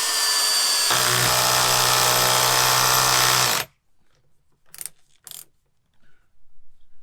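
FERREX Pro cordless combi drill driving a 13mm coach bolt: the motor whine drops slightly and a deeper tone comes in about a second in as the bolt takes load, then the drill stops suddenly after about three and a half seconds. The drill was on the wrong torque setting. Two short knocks follow about a second later.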